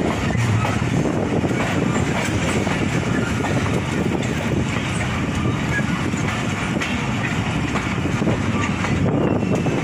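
Passenger coach of a departing express train heard from its doorway: a steady rumble of wheels on rail with some rattle and a few faint clicks.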